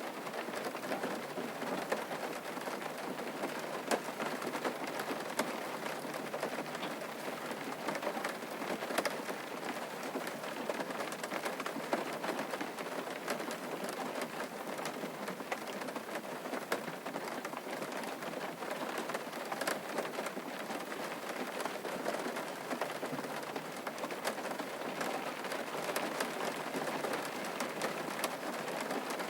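Steady rain falling, with a dense patter of individual drops ticking sharply close by.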